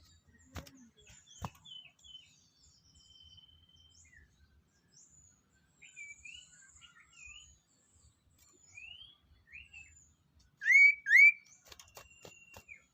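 Small songbirds chirping and whistling, several short calls scattered throughout, with two loud rising whistled notes in quick succession near the end. A few faint clicks early on.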